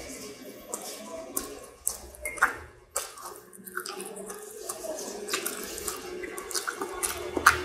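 Close-up eating of chicken nuggets: chewing with wet mouth smacks and many short clicks.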